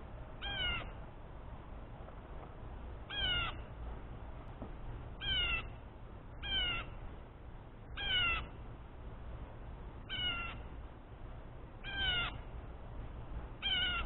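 A repeated meow-like animal call, eight short calls, each rising then falling in pitch, one every one and a half to two and a half seconds.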